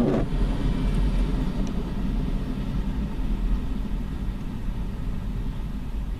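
Low, steady rumble of a long freight train slowly fading away after its wheel clatter ends, heard from inside a car in the rain.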